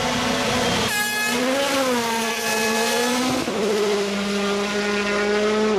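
A World Rally Car's turbocharged 1.6-litre four-cylinder engine held at high revs under full throttle, with a brief burst of noise about a second in. The pitch dips and recovers, then drops in one quick step at about three and a half seconds, an upshift, and holds steady again.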